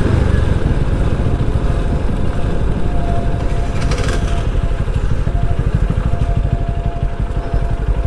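Motorcycle engine running, its rapid firing pulses heard close up, with a thin steady whine from about three to seven seconds in.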